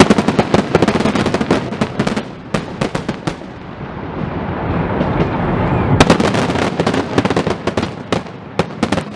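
Aerial fireworks bursting overhead: a dense, rapid crackle of many sharp pops for about three seconds, a lull of low rumbling, then another run of crackling pops about six seconds in.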